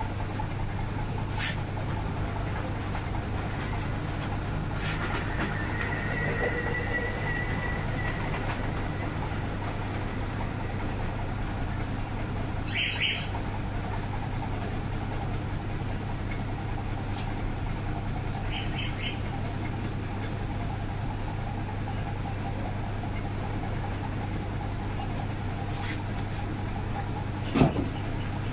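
Steady low hum, with a few short high chirps, scattered light clicks and one knock near the end.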